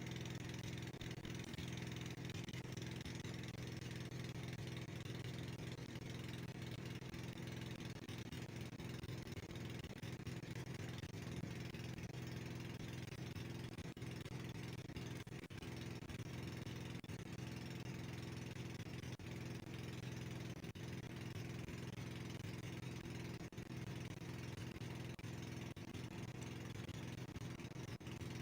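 Boat engine running steadily at a constant speed, an even low drone with no change in pitch.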